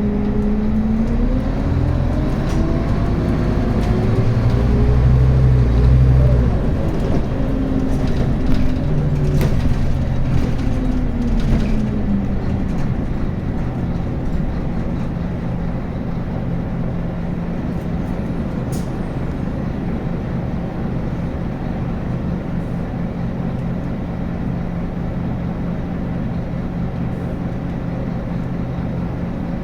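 Scania N280UB city bus diesel engine with ZF Ecomat automatic gearbox. The engine note rises over the first few seconds, then falls away over about ten seconds, and settles into a steady idle from about halfway on.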